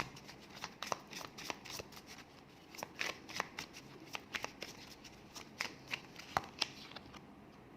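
A deck of oracle cards being shuffled by hand: a run of quick, sharp card clicks and snaps that stops about seven seconds in.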